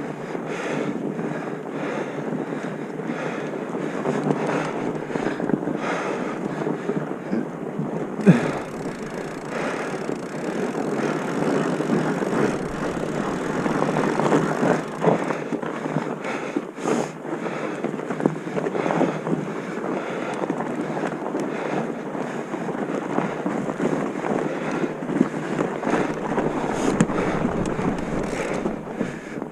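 Wind buffeting the microphone over steady rolling and rattling movement noise, with frequent small knocks throughout and a sharper knock about eight seconds in.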